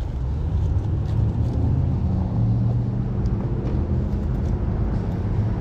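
Small Honda 125cc single-cylinder motorcycle engine running with a steady low hum.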